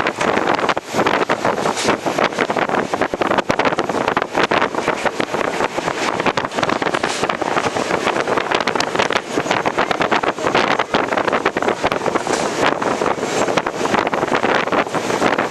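Running noise of an ICF passenger coach at speed: a dense, continuous rattle and clatter of wheels on rail, with wind rushing over the microphone.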